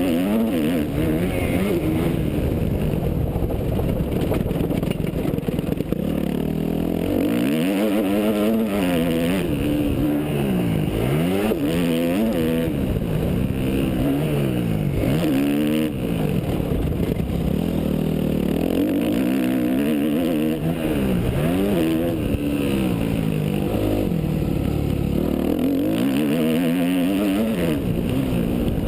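Yamaha YZF 250 four-stroke motocross bike engine running hard and continuously, its pitch climbing and dropping every second or two as the throttle is opened and closed and the gears change around the track.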